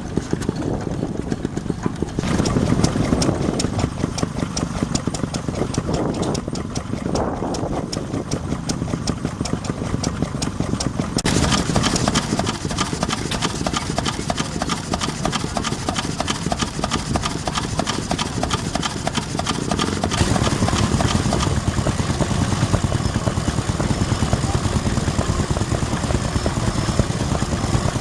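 Vintage stationary engines running with a steady, regular firing beat; the sound changes abruptly about two seconds in, again about eleven seconds in, and once more around twenty seconds in.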